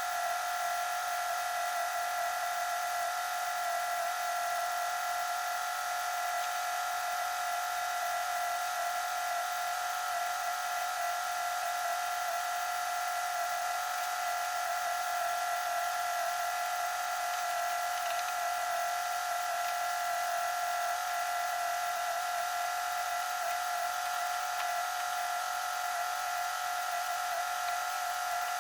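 Small electric motor running with a steady, high-pitched whine, most likely the 1957 Thunderbird's heater blower fan switched on.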